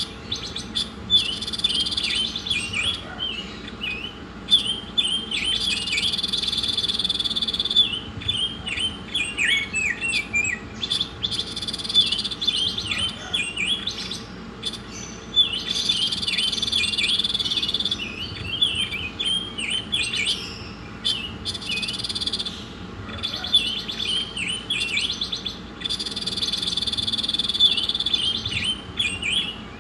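A songbird singing a masteran song: quick runs of high chirps alternating with long, even buzzy trills about two seconds each, in a pattern that repeats several times. A faint steady hum lies underneath.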